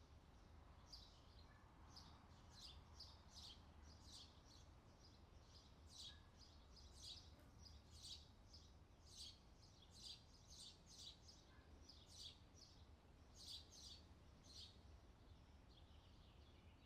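Faint outdoor summer ambience: small birds chirping in quick, repeated short notes over a steady low background hum.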